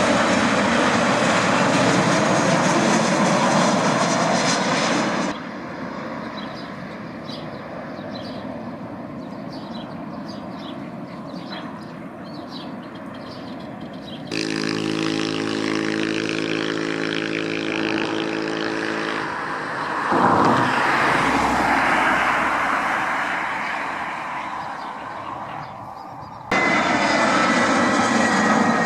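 Small airplane's engines running on approach and landing, a steady engine noise that jumps abruptly in level several times. In one stretch a steady hum of evenly spaced engine tones comes through, and near the end a whine falls slowly in pitch.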